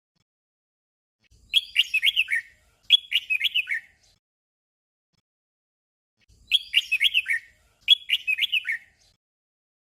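Red-whiskered bulbul song: a short phrase of quick sliding notes sung twice back to back, then after a pause of a few seconds the same doubled phrase again.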